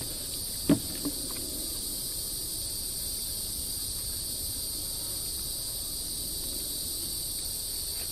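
Steady, high-pitched drone of a summer insect chorus, with a sharp knock about a second in.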